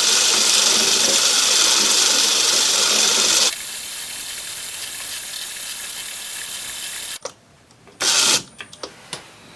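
Myford ML7 lathe running a screw-cutting pass with a loud hiss over the machine noise. The hiss drops away sharply about three and a half seconds in, leaving the lathe running more quietly. The lathe stops about seven seconds in, followed by a short burst of noise and a few clicks.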